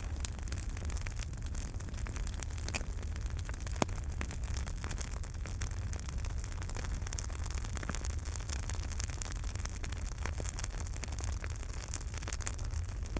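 Wood fire in a fireplace crackling, with a steady stream of small pops and one sharper pop about four seconds in, over a steady low rumble.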